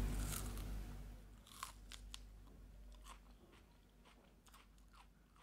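Crunchy chewing of the crisp inner flesh of an elephant apple (Dillenia indica): a string of soft crunches that fades out after about three seconds, with a couple of faint clicks later.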